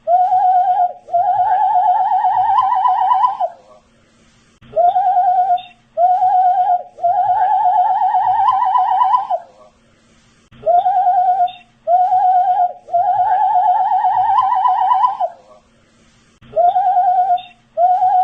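A man whistling a repeating phrase: two short notes, then a long warbling note that rises slightly before breaking off. The phrase comes round about every six seconds, as an exact loop.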